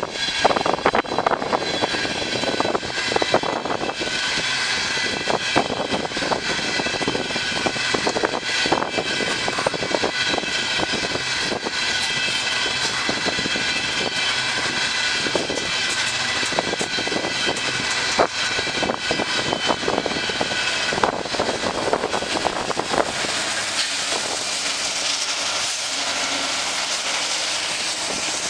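A freight train rolling past: a steady rumble of wheels on rail with a run of sharp clicks and a few high, steady ringing tones. About three-quarters of the way through, the low rumble drops away and a softer hiss is left as the end of the train goes by.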